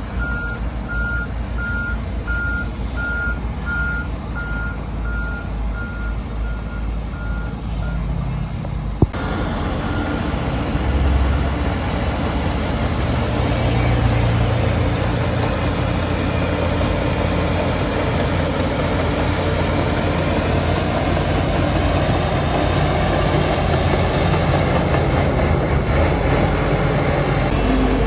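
A heavy machine's reversing alarm beeps steadily, about three beeps every two seconds, over a diesel engine running. About nine seconds in, the beeping stops with a sharp click and a louder heavy diesel engine takes over, working under load.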